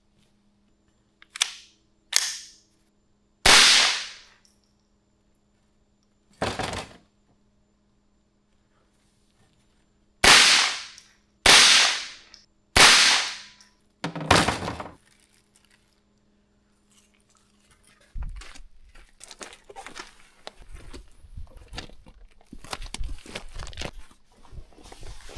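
Eight gunshots from a handgun fired at targets, irregularly spaced over about thirteen seconds, each trailing off over about half a second; the first two are weaker. From about two-thirds in, irregular rustling and crunching follows.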